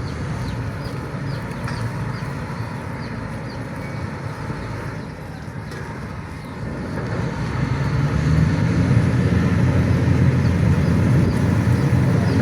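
Low, steady rumble of heavy diesel engines running, growing louder about seven seconds in.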